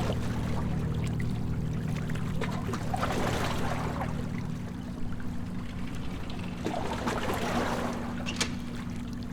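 Water splashing and sloshing around a catamaran, swelling about three seconds in and again about seven seconds in, over a low steady hum.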